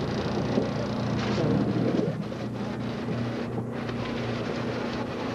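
Diesel-powered passenger train standing at a station, its engine idling with a steady low hum. A louder jumble of noise comes between about one and two seconds in.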